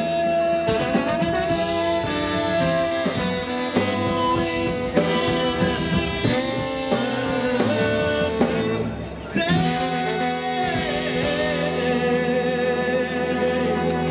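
Brass band with drum kit playing live; the music breaks off briefly about nine seconds in, then the band holds one long sustained chord.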